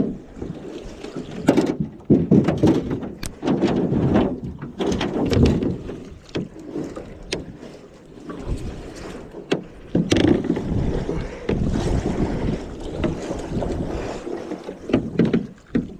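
Water splashing and a clatter of knocks and bumps against a small boat's hull, as a hooked alligator thrashes beside it, with some wind on the microphone.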